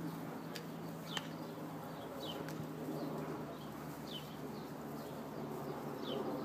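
A small bird chirping repeatedly, short falling chirps about once a second, over a steady low hum.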